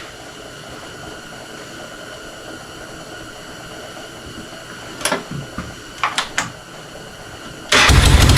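A faint steady hum with a few sharp clicks about five and six seconds in, then near the end the Honda Fourtrax 300's single-cylinder four-stroke engine cuts in loud, running smoothly after a top-end rebuild with a new piston and valves.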